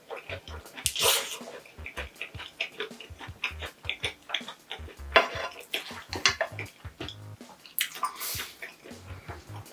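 Close-miked mouth sounds of someone chewing a mouthful of spicy fire noodles with corn cheese: a run of wet smacks and clicks, broken three times by a short hissing breath.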